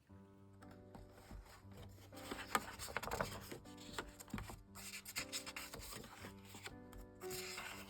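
Paper and stationery rubbed and handled on a desk: an irregular run of soft scratching and rubbing strokes with a few light ticks, over quiet background music.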